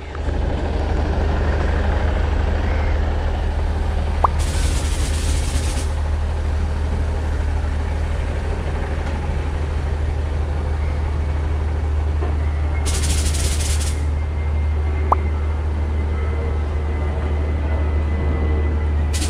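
A steady low drone from a standing train, with two short bursts of hissing, about four seconds in and again about thirteen seconds in.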